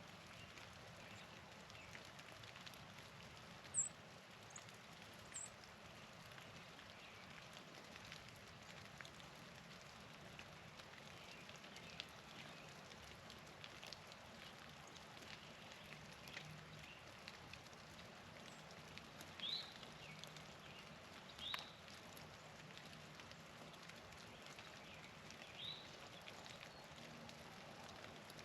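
Quiet outdoor background with a few short, high songbird chip notes: two very high ones about four and five seconds in, and three louder ones in the second half.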